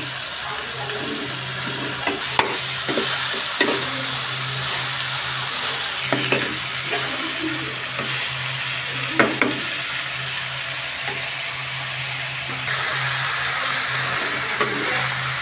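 Taro stolons, vegetables and prawns sizzling in hot oil in a kadai as a steel spoon stir-fries them, the spoon scraping and knocking against the pan a few times.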